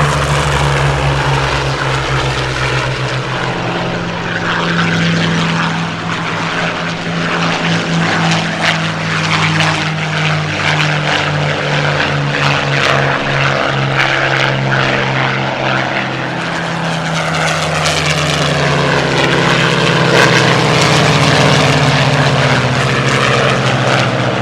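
Formation of Supermarine Spitfires and Hawker Hurricanes flying past, the combined drone of their V-12 piston engines and propellers, swelling slightly near the end.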